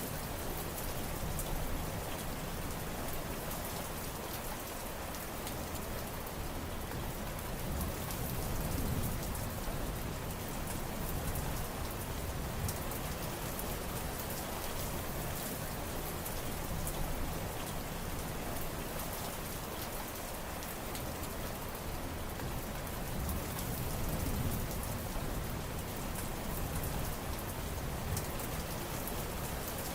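Steady rain falling, a dense patter of drops over a continuous hiss, swelling slightly in loudness twice.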